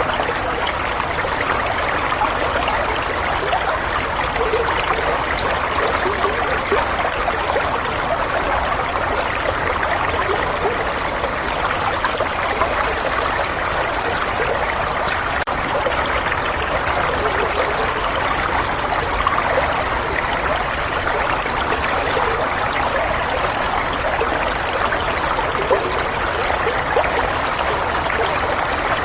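Running water flowing steadily, a continuous rush with no pauses or changes.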